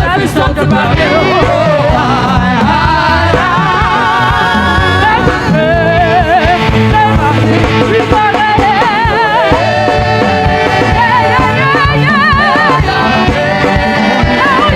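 Loud live band music with a steady bass line under a wavering, vibrato-rich melody line.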